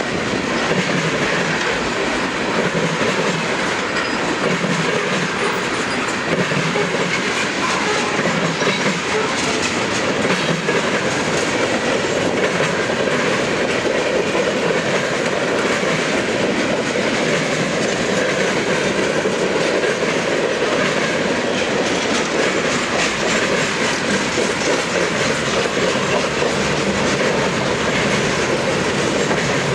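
Freight cars of a CSX manifest train rolling past, with steady wheel and rail noise.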